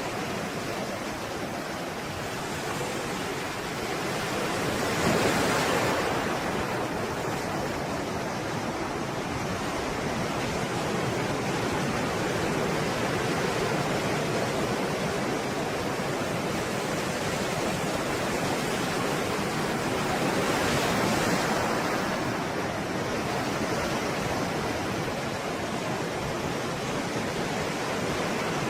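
Stormy sea surf: a steady roar of breaking waves, with two louder waves breaking about five seconds in and again about twenty-one seconds in.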